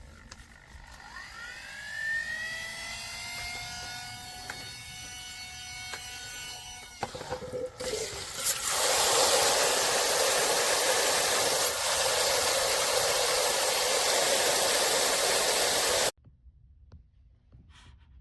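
Small electric pump of a battery-powered portable camping shower starting with a whine that rises in pitch and then holds steady. After about eight seconds, water spraying from the shower head drowns it out as a loud steady hiss, which cuts off suddenly near the end.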